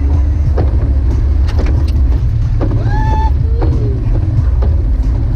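Jeep Wrangler YJ driving on snowy roads: a loud, steady low rumble of engine and tyres, with scattered knocks and a brief high tone about three seconds in.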